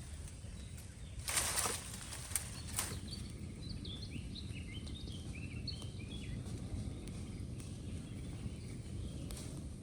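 Small birds chirping in a quick series of short high notes, over a steady low outdoor rumble. Before the chirps, about a second and a half in, there is a brief loud rustle followed by a couple of sharp clicks.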